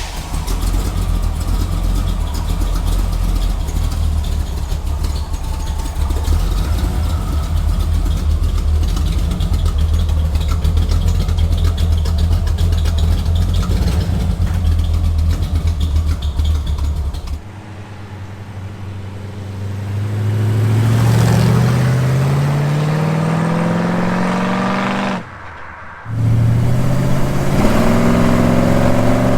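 Chevy 350 V8 with block-hugger headers and Magnaflow dual exhaust running at a fast idle on the choke just after a cold start. About 17 seconds in it changes to the engine under way, its note rising as it accelerates, dropping away briefly, then rising again.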